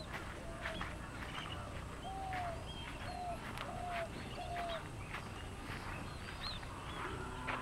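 Birds calling: a short, low, arched note repeated several times at roughly half-second to one-second intervals, stopping about five seconds in, with scattered sharp chirps from other birds over a low background hum of the open countryside.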